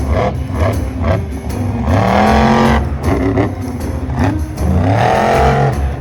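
Monster truck engine revving twice, each rev rising and falling in pitch, over background music with a steady beat.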